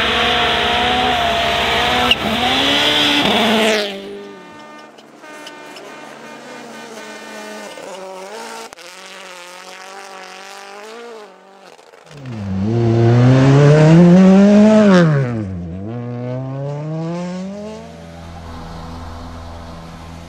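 Rally car engines at full throttle in several short passes. A loud run for the first four seconds gives way to a quieter engine. About twelve seconds in, a car comes close with its engine pitch rising and falling sharply, then fades.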